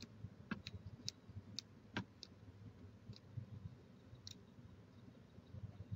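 Faint, irregular clicks and ticks, about a dozen in a few seconds, with two sharper ones about half a second and two seconds in, over a low steady rumble.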